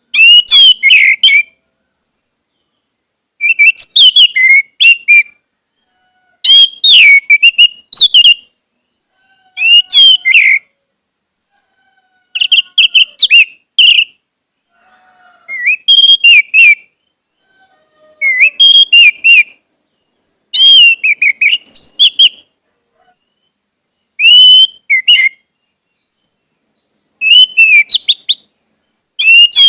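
Orange-headed thrush (anis merah) singing in loud bursts of rich, warbled whistles, each phrase about a second long and repeated every two to three seconds. Faint lower whistles can be heard in some of the pauses.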